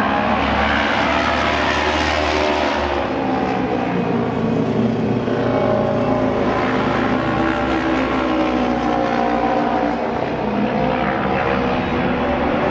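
Several auto race motorcycles' engines running hard together, their overlapping engine notes rising and falling in pitch as the bikes go round the track.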